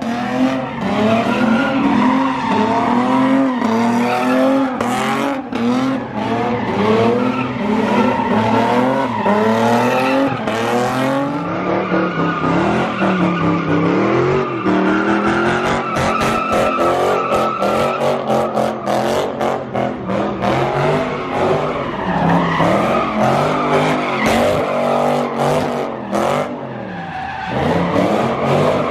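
Car engine revving up and down over and over while its tyres squeal and skid, as in donuts or a burnout.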